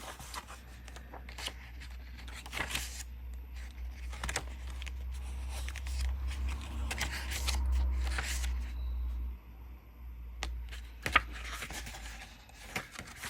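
Pages of a 6x6 patterned paper pad being flipped one after another, with quick paper rustles and flicks, over a low rumble.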